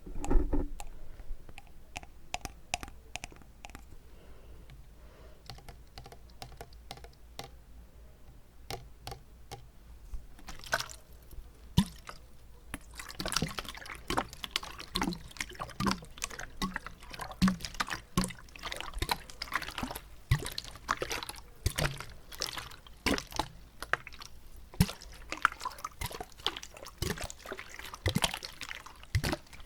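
A water bottle being tapped with the fingers close to the microphone, with the water inside sloshing and gurgling. The taps are sparse and soft at first, then come thick and fast from about halfway through.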